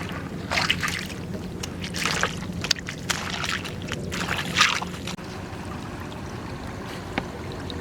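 Water splashing in four short bursts over a steady low hum, then only the hum for the last few seconds.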